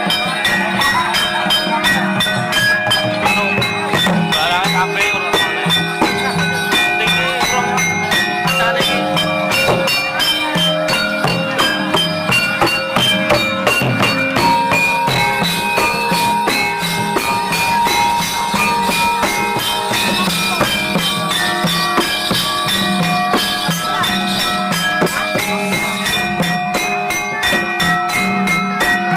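Lively music accompanying a jathilan horse dance: a fast, steady drum beat under ringing struck-metal tones and jingling percussion.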